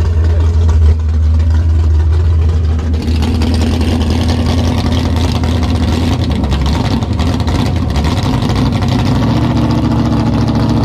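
Naturally aspirated 533-cubic-inch V8 of a 1971 Mach 1 Mustang drag car idling as a steady low rumble, its pitch lifting slightly about nine seconds in.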